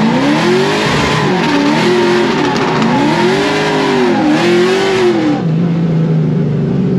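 Drift car engine revving up and down repeatedly over the rush of sliding, spinning tyres. About five seconds in, the tyre noise stops and the engine settles to a steady note.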